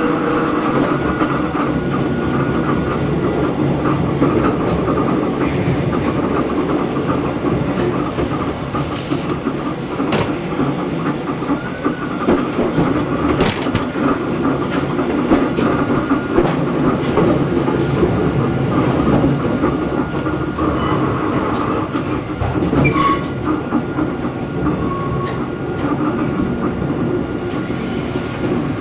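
Onboard running sound of Hakone Tozan Railway Moha 1 No. 106, an electric railcar with nose-suspended SE121-A traction motors on Nippon Sharyo NA7 bogies, under way: a steady rumble of wheels on rail with a faint steady whine and scattered rail-joint clicks.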